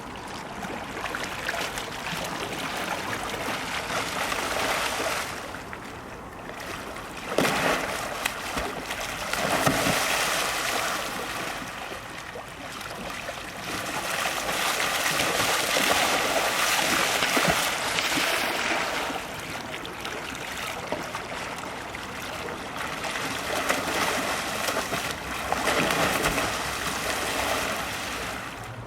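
Water splashing and rushing around a kayak as it is paddled and thrown about, in loud surges with sharper splashes about a third of the way in.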